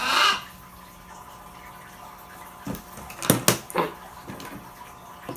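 Plastic Lego bricks being handled: a short rustle at the start, then a few sharp clicks and clatters about three seconds in.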